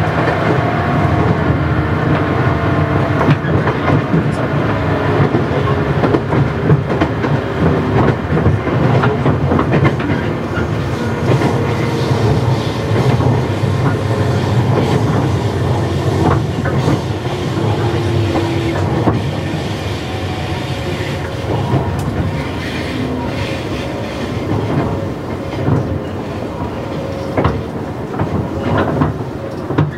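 JR 117 series 100-subseries electric train running, heard from inside the passenger car: a steady rumble of wheels and traction motors, with rail-joint clicks that grow more frequent near the end.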